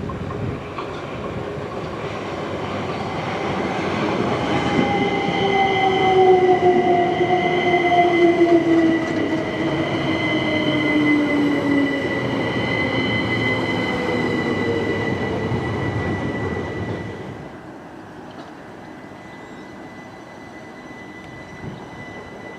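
Class 377 Electrostar electric multiple unit running through, with a motor whine falling slowly in pitch as the train slows and rumbling wheel noise on the rails. About seventeen seconds in the running noise drops away sharply, leaving a quieter, steady high-pitched whine.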